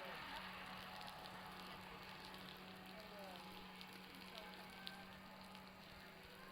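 Meltwater dripping and trickling from a roof, a soft steady hiss scattered with small ticks that sounds much like a crackling bonfire.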